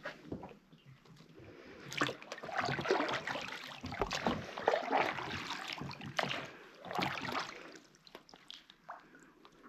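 Small boat being paddled: water splashes with each stroke, roughly once a second, then fades to quieter lapping near the end.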